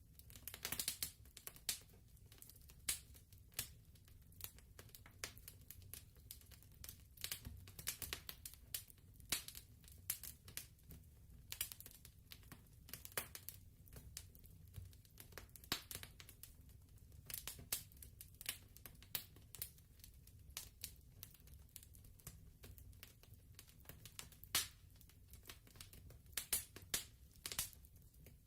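Faint crackling of a fireplace fire: irregular snaps and pops, several a second, over a low steady rumble.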